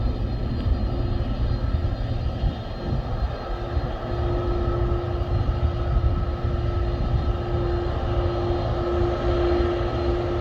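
Airliner engines running steadily: a continuous low rumble with a held engine tone that grows stronger about halfway through.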